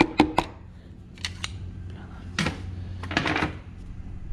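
Quick, even light taps, about five a second, as a piston with its rings held in a ring compressor is knocked down into a cylinder of the Daewoo Lanos engine block. The taps stop about half a second in, followed by a few faint clicks and two short scrapes.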